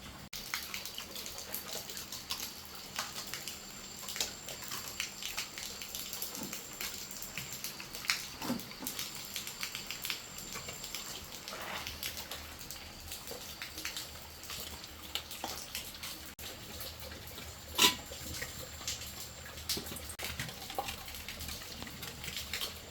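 Rain dripping and pattering: many irregular small drips and taps, with one sharper, louder knock about eighteen seconds in.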